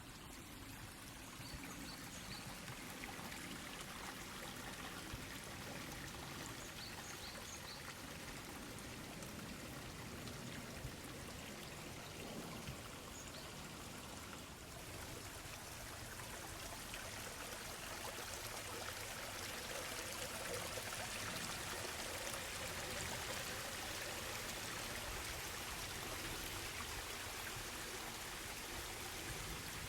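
Small waterfall and its stream running steadily, an even hiss of flowing and splashing water that grows somewhat louder over the second half.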